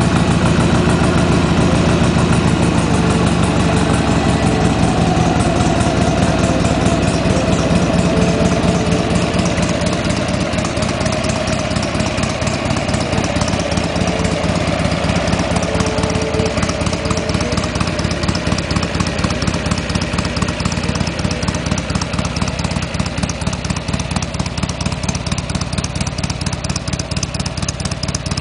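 Motorcycle engine idling through its stock mufflers, a steady run of firing pulses that grows slightly quieter toward the end.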